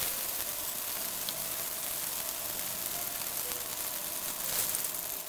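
Steady sizzle of potato-starch-coated chicken strips shallow-frying in a small pan with only a little oil, the oil spitting hard.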